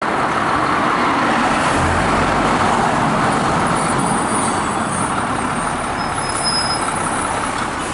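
Steady road traffic noise of vehicles passing, with a faint, brief high-pitched tone about six seconds in.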